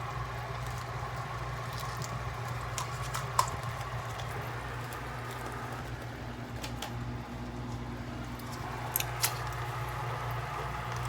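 A steady low hum with a few light clicks and taps from handling: a sharper click about a third of the way in and two close together near the end.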